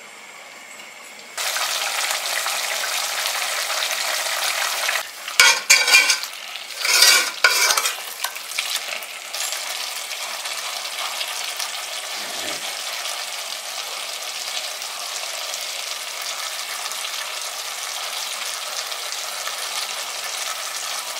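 Chicken masala sizzling steadily in an aluminium pot. About 5 to 8 seconds in, a few loud scrapes and clatters come from a ladle working through the curry.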